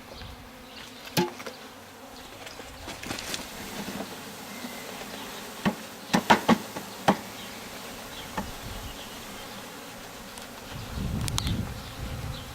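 Honey bees buzzing steadily around an open hive being stocked from a package, with a sharp knock about a second in and a quick cluster of knocks around six to seven seconds in. A low rumble comes in near the end.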